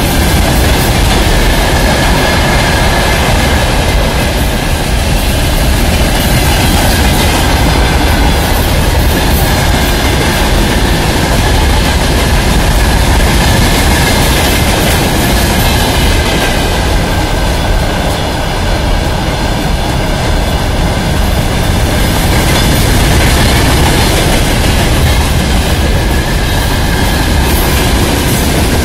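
Freight train wagons (open gondolas, boxcars and hoppers) rolling past at close range: a loud, continuous rumble and clatter of steel wheels on the rails, with a faint steady whine high above it.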